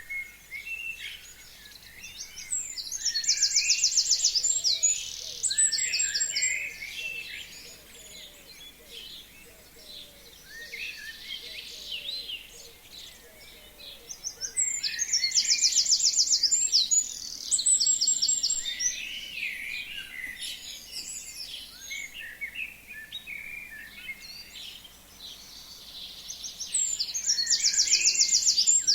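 A forest songbird sings the same loud song three times, about twelve seconds apart. Each song is a fast, high trill of repeated notes ending in a short flourish. Other birds call softly in between.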